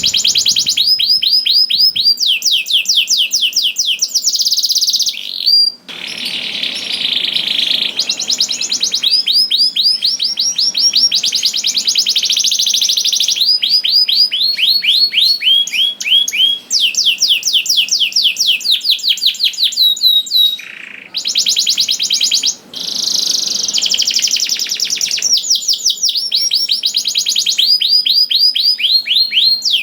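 Domestic canary singing a long, loud song of rapid trills: series of fast repeated high notes that switch pitch and speed every second or so, with only a few brief breaks.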